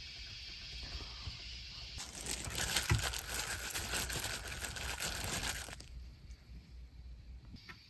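Crinkling and rustling of something dry being handled in the kitchen, a dense crackle that starts about two seconds in and stops abruptly about four seconds later, over a steady faint hiss.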